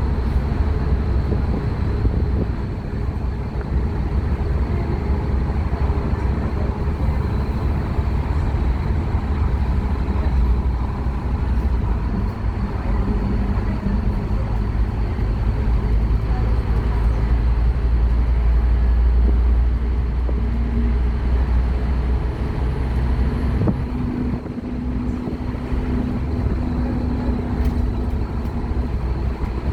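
Scania K230UB Omnilink bus's five-cylinder diesel engine running under way, a steady, loud low drone with its pitch shifting slowly as the bus is driven.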